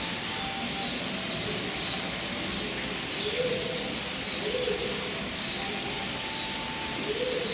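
Birds calling: short high chirps throughout, and a low call repeated several times from about three seconds in.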